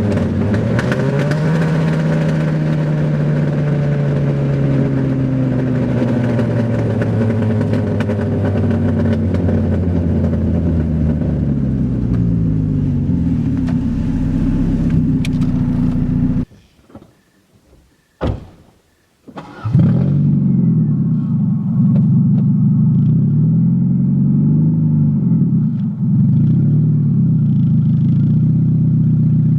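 A 1993 Saturn SW2's 1.9-litre twin-cam four-cylinder engine running loud through an open exhaust manifold with no pipes, its pitch rising and falling with revs. About sixteen seconds in the engine sound cuts off abruptly for a few seconds, then comes back, again rising and falling.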